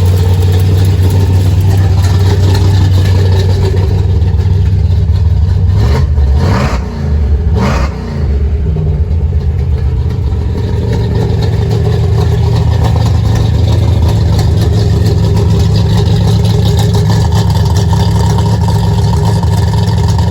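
Swapped-in V8 engine of an S-10 Blazer running steadily at a fairly high idle, with two brief dips in engine speed about seven and eight seconds in.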